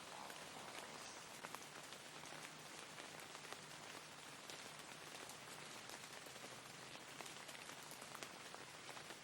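Steady rainfall, a soft even hiss scattered with the small ticks of individual drops.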